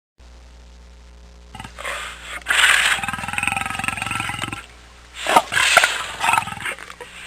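A large animal roaring: two long, loud calls, the first starting about two seconds in and the second about five seconds in, over a low steady hum.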